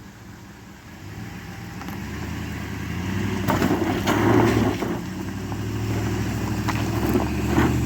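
Truck engine labouring up a steep off-road hill, growing louder as it comes closer. Several knocks and clatters from the tyres and body on rough ground come from about three and a half seconds in.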